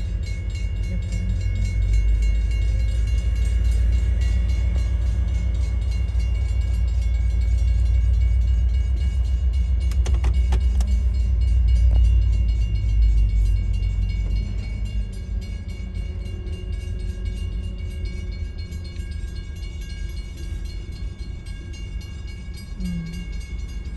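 Railroad crossing warning bell ringing steadily over the heavy low rumble of a freight train going through the crossing. The rumble is loudest in the first half and fades away after about 13 seconds.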